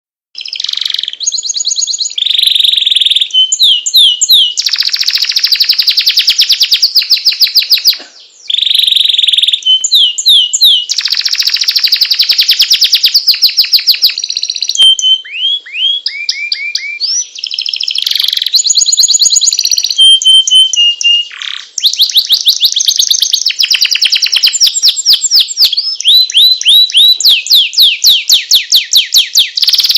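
Domestic canary singing in full song: a long, loud, high-pitched run of rapid trills, rolls and repeated chirping notes, pausing briefly about 8 seconds in and again about 21 seconds in.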